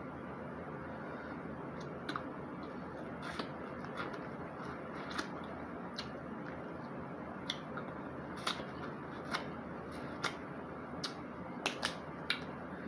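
Snow crab legs being cracked and snapped open by hand: a dozen or so sharp, irregular shell cracks and clicks, several coming close together near the end.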